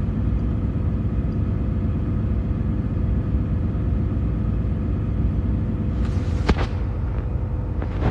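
Steady low rumble inside a truck's cab from the running truck, with a faint steady hum. One short click about six and a half seconds in.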